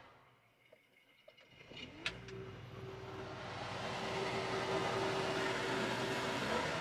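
Combine harvester's diesel engine starting about two seconds in, after a click: a tone rises and then holds steady as the engine runs up, the sound growing steadily louder. The combine has nearly 6,000 hours on it.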